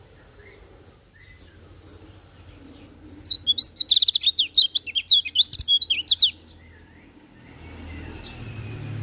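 Kecial kuning white-eye singing: a fast run of loud, high chirping notes lasting about three seconds, starting about three seconds in, with fainter calls before and after. A low background rumble builds near the end.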